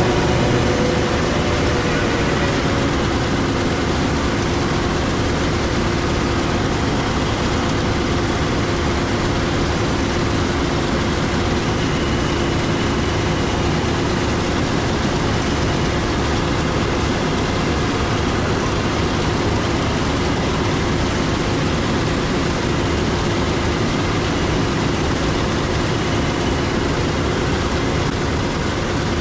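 Heavy farm machinery running steadily in a wheat harvest field, a constant engine drone with a steady hum, unchanging throughout.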